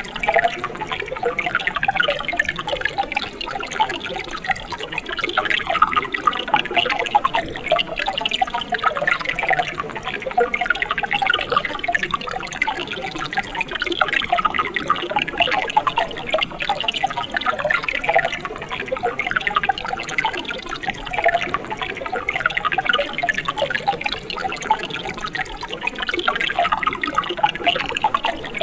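Running water of a mountain stream, a steady gurgling flow with many small splashes and drips.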